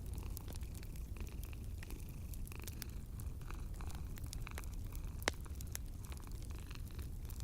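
Wood fire crackling with many scattered small pops and one sharper pop about five seconds in, over the low, steady purring of a sleeping cat.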